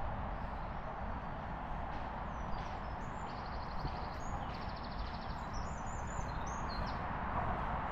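A small songbird singing a few high chirps and two rapid trills over a steady background rumble of outdoor noise.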